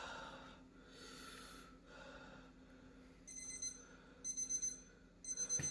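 Heavy breathing from a man with a mouth burning from chillies, then a timer alarm going off about three seconds in, beeping in quick groups about once a second, signalling that five minutes are up.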